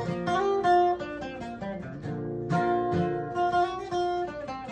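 Acoustic guitar playing alone, with strummed chords and picked notes that ring on.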